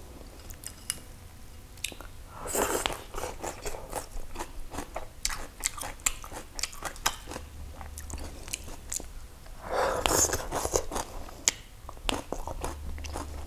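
Close-up chewing and crunching of raw vegetables, with small wet mouth clicks throughout and two louder bursts of crunching, about two and a half seconds in and again about ten seconds in.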